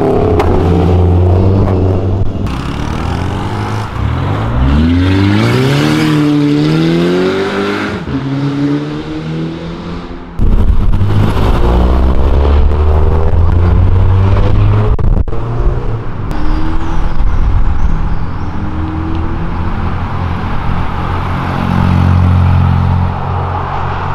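Several cars pulling away one after another, their engines revving up and falling back, with a sudden step up in loudness about ten seconds in.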